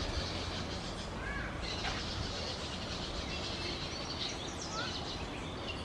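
Steady forest hiss with a few short, high bird chirps scattered through it, one about a second in and another near the end.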